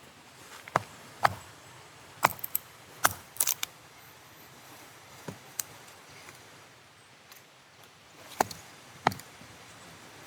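A series of sharp knocks and clacks at irregular intervals: a cluster of several in the first few seconds, a quiet gap, then two more near the end.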